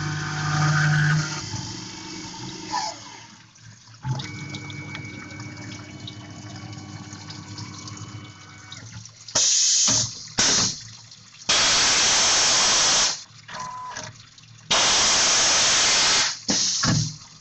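Tormach PCNC 1100 CNC mill: the spindle's steady hum winds down in the first two seconds and a quieter steady machine tone follows. From about nine seconds in come repeated loud bursts of hissing coolant spray, switching on and off, some lasting over a second.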